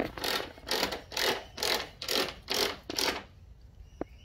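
Ratchet spanner worked back and forth on a nylock nut, seven short rasping strokes of the pawl at about two a second, then a single sharp click near the end.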